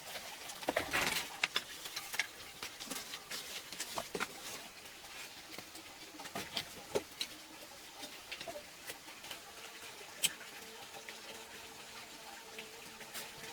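Scattered light taps and clicks at an irregular pace, with a short rustle about a second in.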